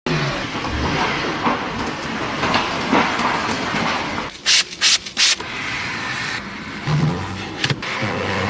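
Car wash spray: a steady hiss of water on a car, broken about halfway through by three short, loud blasts of spray.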